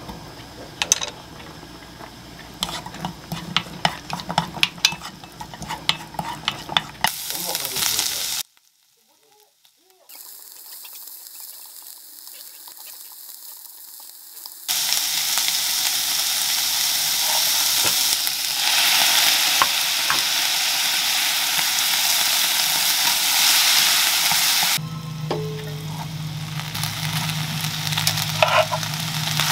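Sliced garlic frying gently in oil in a nonstick pan, with a wooden spatula scraping and tapping as it is stirred. After a short silent break, a loud steady sizzle as shrimp fry in the pan. Near the end the sizzle drops back under a low steady hum, with a few taps of the spatula.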